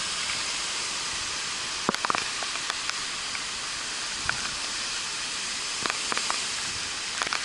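Steady rushing hiss of hurricane-force wind and rain, with a few brief sharp clicks or knocks.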